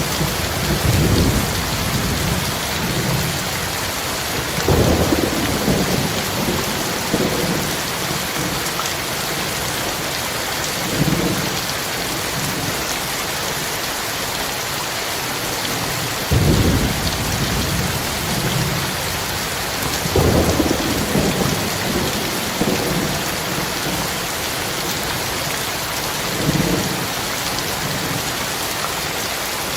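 Heavy, steady rain with thunder rumbling in repeatedly, a low roll every few seconds. The loudest roll comes a little past halfway.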